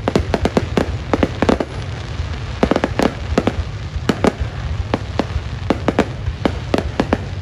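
Fireworks display bursting: many sharp bangs in quick, irregular succession, several a second, over a steady low rumble.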